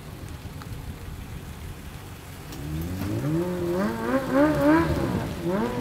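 A vehicle engine rumbling low, then from about halfway revving up, its pitch rising and then going up and down in several quick blips.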